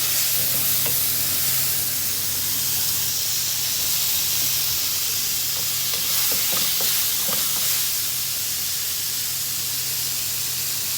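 Mushrooms frying in butter in a pan: a steady sizzle, with a few faint clicks of a utensil stirring in the pan about six to seven seconds in.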